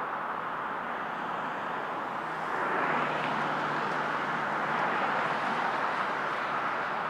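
Jet aircraft engines: a steady rushing noise that grows louder about two and a half seconds in, with a faint low hum under it.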